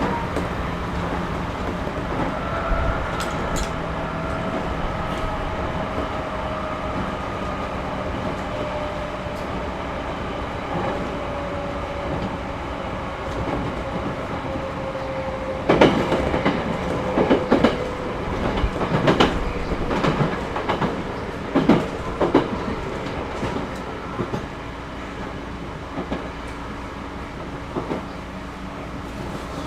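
Running sound inside a 211-5000 series electric train: a steady rumble with a faint whine that slowly falls in pitch. About halfway through, the wheels give a cluster of loud clacks over rail joints, and the running grows a little quieter near the end.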